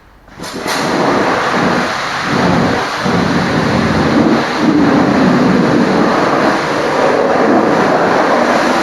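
High-pressure water spray hitting a truck's bodywork, a loud steady rush that starts abruptly about a third of a second in.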